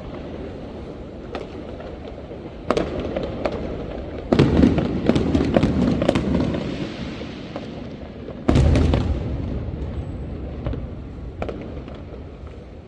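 Fireworks going off: scattered bangs, a burst of rapid crackling about four seconds in, and a loud deep bang a little after eight seconds.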